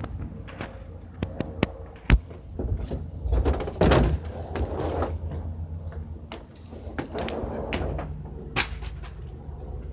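Helicopter passing overhead, a steady low rotor drone, which the observer hears as a medium-sized helicopter tuned to sound heavy and aggressive. Several sharp knocks, the loudest about two seconds in, and bursts of rustling come over it.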